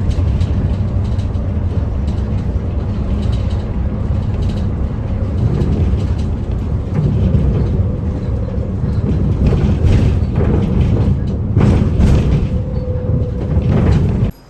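Steady low rumble of a moving vehicle, with a few short knocks and rattles near the end; the sound cuts off abruptly.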